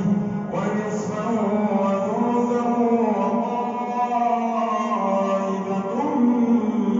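A man's voice in melodic chanted Arabic recitation during prayer, holding long drawn-out notes that step from one pitch to another.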